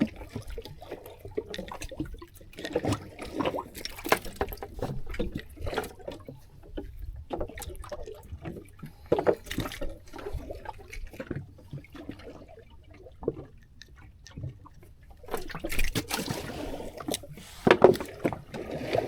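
Sea water slapping and splashing irregularly against a small boat's hull, mixed with scattered small knocks, with a louder splash about three quarters of the way through.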